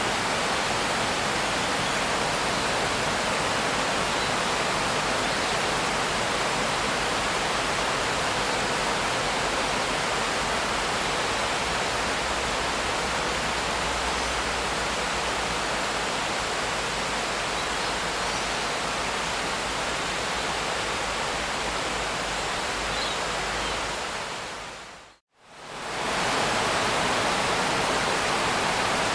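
Steady rain, an even dense hiss with no separate drops standing out. About 25 seconds in it fades quickly to silence and comes back up within a second or two.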